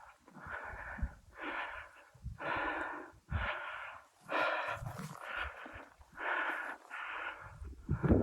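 A person breathing hard and fast while hiking, a rush of air roughly every second. Low thumps underneath.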